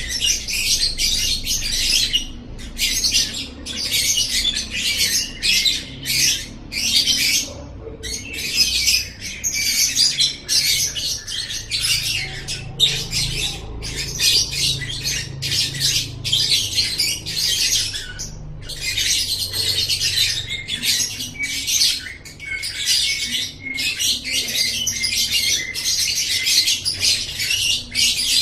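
Lovebird singing a fast, high-pitched chatter in bursts of about half a second to two seconds, separated by short breaks.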